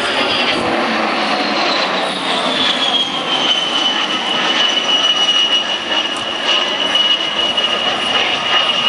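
A-10 Thunderbolt II's twin turbofan engines running loud, with a high whine over the rush of jet noise; the whine drops in pitch about two seconds in and then holds steady.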